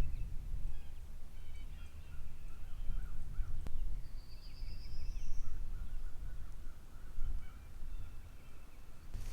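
Distant birds calling, one repeating a rising buzzy phrase twice, over a low wind rumble on the microphone, with a single sharp click about midway.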